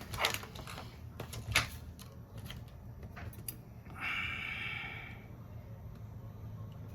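A few sharp clicks and taps, two of them loud within the first two seconds, then a short hiss about four seconds in, over a low steady hum.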